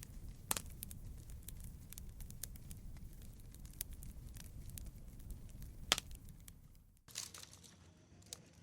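Campfire crackling and popping over a low steady rumble, with a few sharper pops. About seven seconds in, the sound cuts to a quieter stretch where faint crackles continue.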